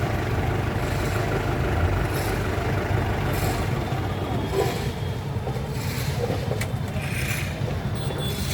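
Traffic stalled in a jam: many vehicle engines idling together in a steady low hum, with several brief hisses over the top.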